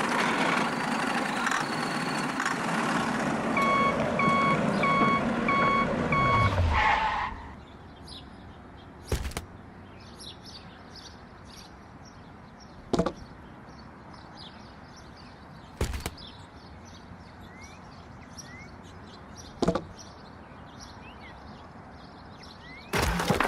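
Mini truck's motor running with a string of evenly spaced reversing beeps, then winding down in pitch and stopping about seven seconds in. After that, faint high chirps and a few sharp knocks every three or four seconds.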